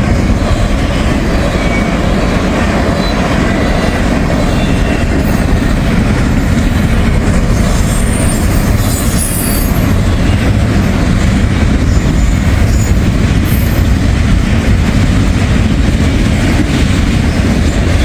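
Container freight train's cars rolling past at close range: a steady, loud rumble of steel wheels on rail with clickety-clack, and a few brief high wheel squeals.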